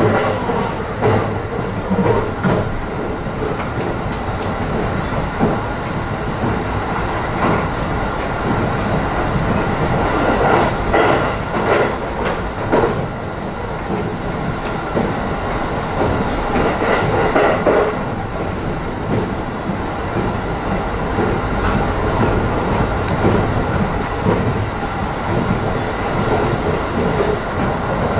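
Inside a JR East E531 series electric multiple unit car running at speed: the steady rumble of wheels and running gear, with bursts of rail-joint clatter about a third of the way in and again past the middle.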